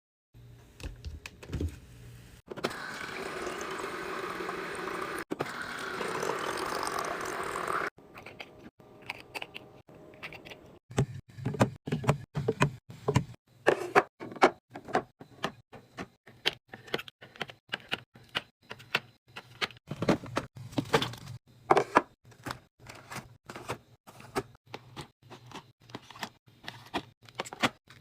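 Packaged food and drinks being handled and set into a mini fridge: a run of sharp clicks, knocks and taps of packaging and containers against shelves, with a steady rushing sound from about two and a half to eight seconds in.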